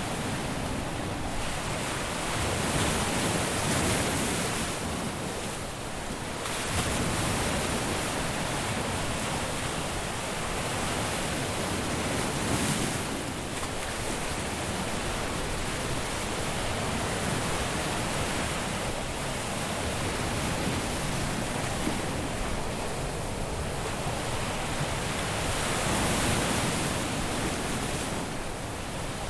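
Ocean surf breaking on a beach: a continuous wash of waves, swelling with breakers every few seconds.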